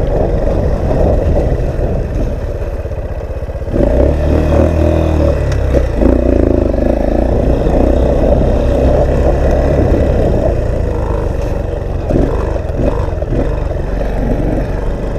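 Motorcycle engine running under way, getting louder about four seconds in, with wind buffeting the helmet microphone.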